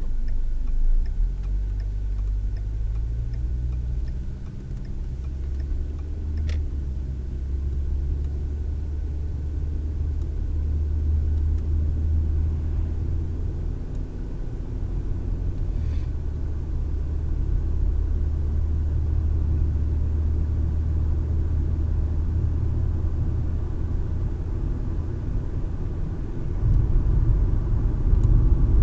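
Car engine and road rumble inside the cabin as the car gets under way. At first a turn signal ticks and the engine pitch rises with acceleration, then the car settles into a steady rumble that grows louder near the end.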